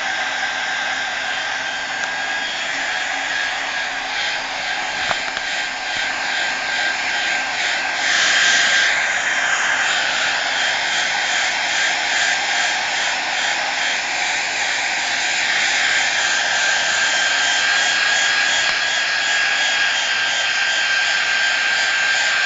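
Hair dryer blowing steadily with a constant high whine, getting a little louder about eight seconds in.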